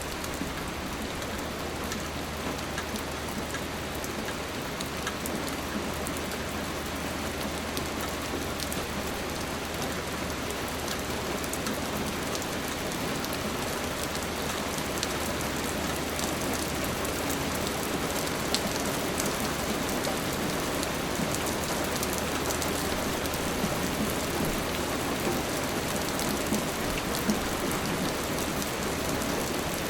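Steady rain falling on a surface, with scattered individual drops ticking sharply through the constant hiss.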